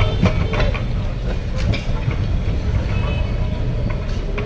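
Kolkata tram running: a steady low rumble with scattered knocks and clicks.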